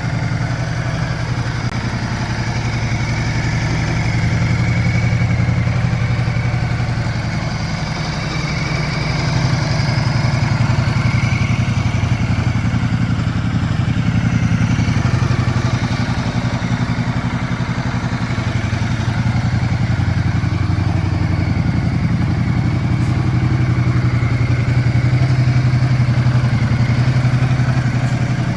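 Ducati Multistrada 1200 Enduro's Testastretta L-twin engine running steadily, its loudness gently rising and easing every few seconds.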